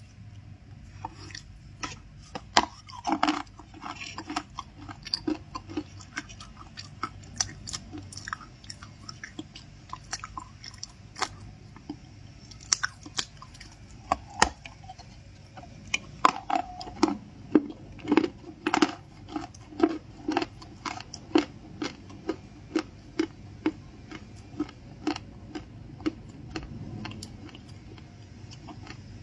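A person biting and chewing crunchy stuffed cookies, with sharp crunches and then a steady chewing rhythm of about one and a half chews a second through the second half.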